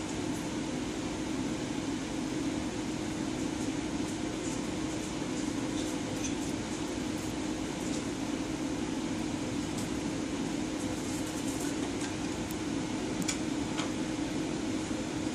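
A steady, even machine hum, like a room air conditioner or fan running, with a few faint scattered ticks.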